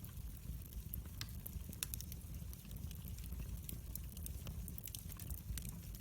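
Fireplace fire crackling: frequent sharp snaps and pops at irregular intervals over a steady low rumble of the flames.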